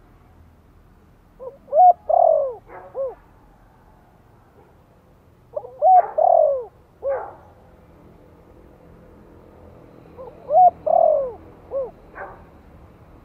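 Spotted dove cooing in the 'Thổ' voice style: three short phrases of several low, rounded notes, repeated about every four seconds.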